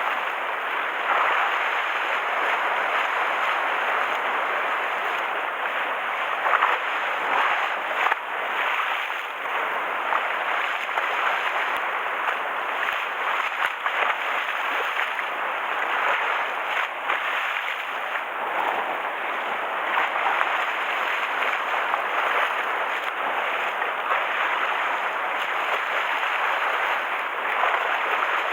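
Rough sea waves washing and splashing against the harbour shore: a steady rushing noise with a few louder splashes about six and eight seconds in.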